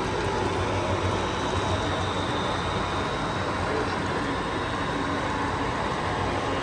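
Model train running on a layout, heard against a steady background din.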